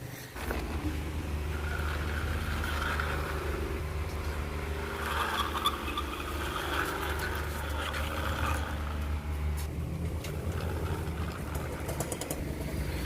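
Toy sports car playing an engine-running sound effect, starting just after the beginning and holding steady with a low hum.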